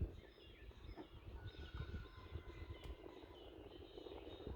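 Small songbirds chirping and calling in short, repeated notes, over a low rumble.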